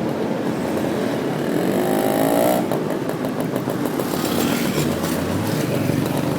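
Motorcycle taxi engine running under way amid city traffic, with a brief rising whine about two seconds in.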